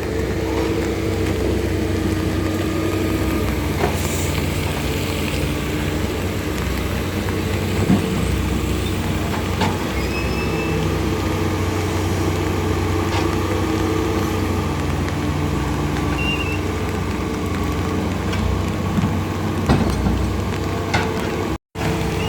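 Large engine, such as a truck's or heavy machine's, running steadily with scattered clicks and knocks; the sound cuts out for an instant near the end.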